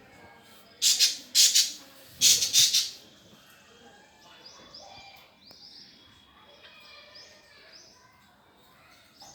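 Lovebirds calling loudly three times in the first three seconds, then chirping softly.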